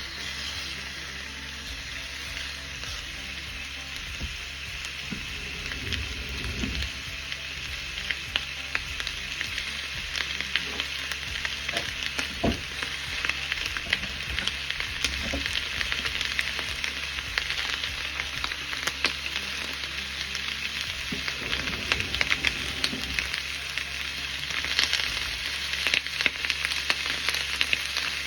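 Chicken drumettes frying in hot oil in a pan: a steady sizzle full of small crackles, growing livelier near the end, with a couple of low bumps as the pieces or pan are moved.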